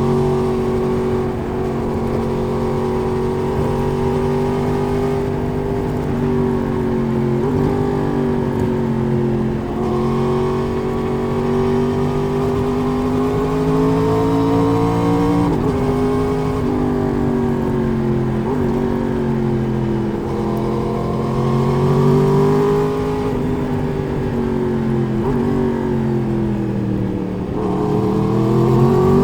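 Four-cylinder sport motorcycle engine heard from the rider's seat, pulling through the gears at road speed. The revs rise and fall gently, with a few short dips, and climb steeply near the end as the bike accelerates hard.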